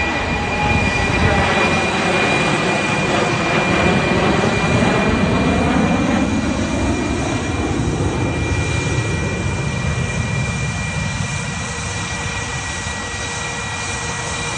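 Jet engines of Russian Knights fighter jets running at display power as the aircraft fly past, a loud, continuous rush of engine noise whose sweep shifts as they pass and eases slightly in the second half.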